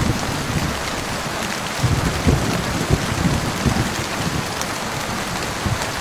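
Heavy rain falling steadily, with a low, uneven rumble of thunder underneath that swells about two seconds in.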